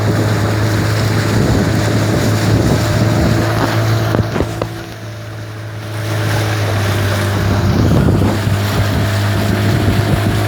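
Motorboat's outboard engine running at a steady pitch, with water rushing along the hull and wind on the microphone. The engine note and the rush briefly ease about halfway through, then pick up again.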